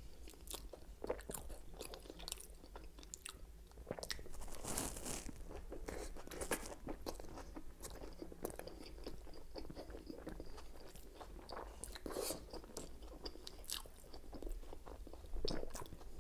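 Close-miked chewing of a toasted Subway chicken and bacon sub: wet mouth sounds and irregular crunches, louder around five seconds in and again around twelve seconds in.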